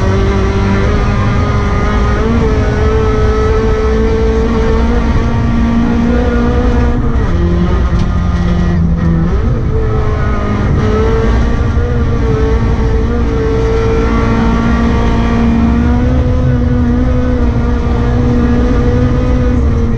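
Rally car engine running hard under load, its note held high and shifting with gear changes: it drops about seven seconds in and climbs again about ten seconds in.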